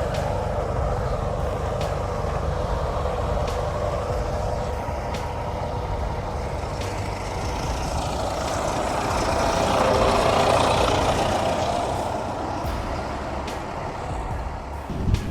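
Heavy vehicle running steadily with a deep rumble, growing somewhat louder about ten seconds in.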